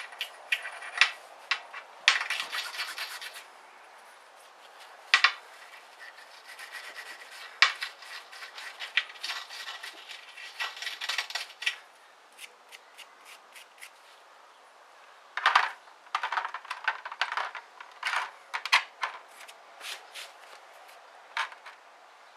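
Hand cleaning of a small metal diesel injector part: rubbing and scraping, with scattered light clicks and clinks of small metal parts being handled.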